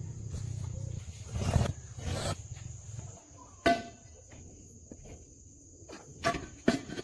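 A low mechanical rumble that stops about three seconds in, with scattered sharp knocks and clicks of work going on. A steady high, thin whine runs underneath throughout.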